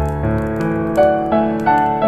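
Background piano music, a slow run of notes and chords struck about three times a second.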